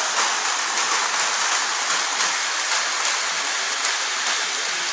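Polar Express toy train set running around its track: a steady clickety-clack rattle of the wheels on the track.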